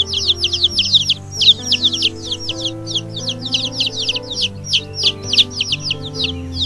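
Chicks peeping: a rapid, continuous run of short, high, downward-sliding peeps, several a second, with background music underneath.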